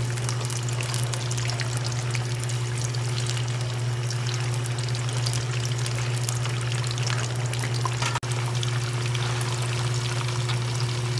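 Tofu cubes deep-frying in hot oil in a wok: a steady crackling sizzle with many fine spatters, over a steady low hum.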